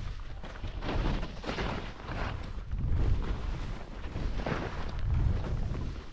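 Wind buffeting a camera microphone while skiing downhill, with the hiss of skis on snow that swells and fades about once a second, as in a run of linked turns.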